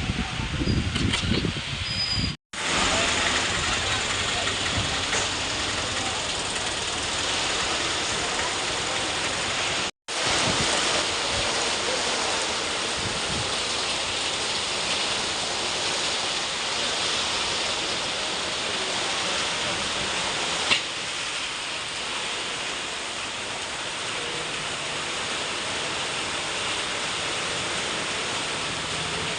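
Heavy rain pouring down: a steady, dense hiss, cut off twice by brief silences where the footage changes.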